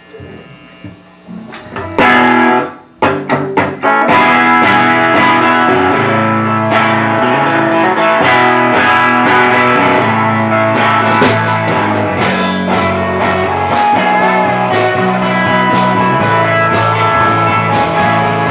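Live rock band starting its last song: after a quiet moment, a few loud hits on guitar and drums, then the full band playing with electric guitar to the fore; the cymbals come in about two-thirds of the way through.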